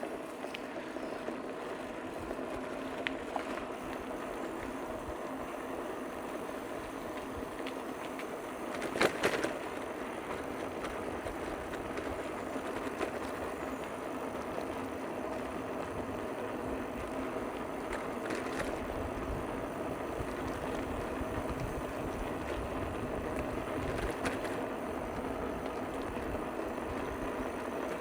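Bicycle in motion on a trail: steady tyre rolling noise, with a short burst of knocks or rattles about nine seconds in and a few lighter clicks later.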